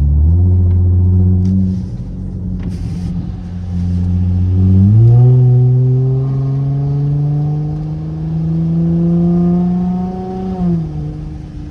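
Straight-piped SXT exhaust under acceleration, a loud engine drone. After a short step up early on, the pitch climbs steadily for about six seconds, then drops off sharply near the end.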